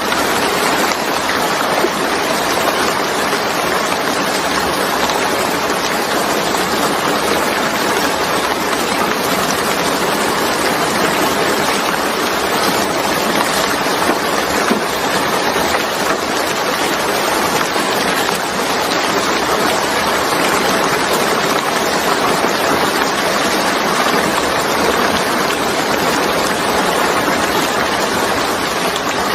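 Steady rain falling, an even, unbroken hiss of drops with no distinct thunder or individual hits.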